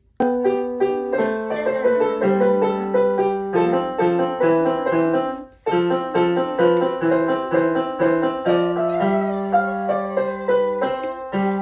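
Digital keyboard played in a piano voice: a steady run of notes with a low bass line under a repeating melody. The playing breaks off briefly about five and a half seconds in and then resumes.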